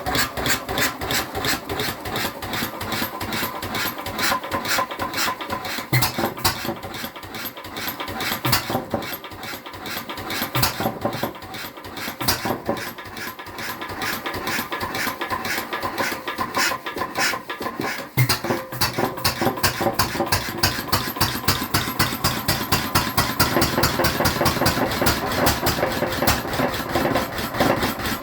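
Lister MH 5 hp single-cylinder stationary engine running with a rapid, even firing beat. It runs softer for a while, then picks up again with a stronger beat about eighteen seconds in.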